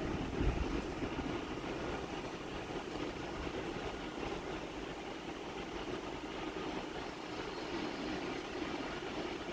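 Steady low rumble of trains in a large covered station hall, with no sharp sounds, as a train comes in slowly along the platform.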